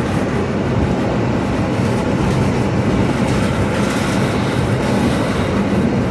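Steady rumbling noise inside a moving vehicle's cabin: engine and tyre noise on a waterlogged, flooded road.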